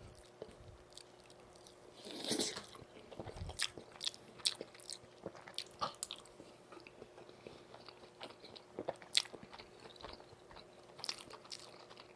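A person biting into and chewing a piece of battered Korean pan-fried pancake (jeon) close to the microphone. There is a longer bite about two seconds in, then many short, wet mouth clicks and smacks while chewing.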